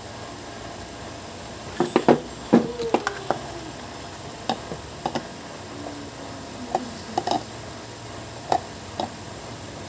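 Scattered clicks and knocks of hard objects being handled, densest about two seconds in, with a short falling squeak among them; no motor is running.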